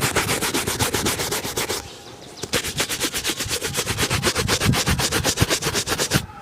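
A shoe being buffed with rapid back-and-forth rubbing strokes, about seven or eight a second. The strokes run in two spells with a short pause a little under two seconds in.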